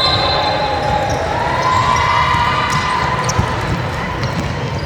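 Basketball bouncing on a gym court amid the steady din of voices from players and spectators, with a sharp thud about three and a half seconds in.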